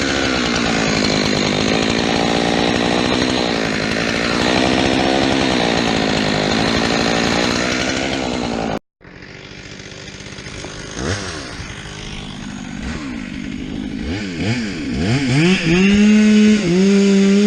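Chainsaw running steadily, its pitch wavering, for the first half; it cuts off abruptly. After that a chainsaw is revved up and down several times, getting louder, and is held at a high steady pitch near the end.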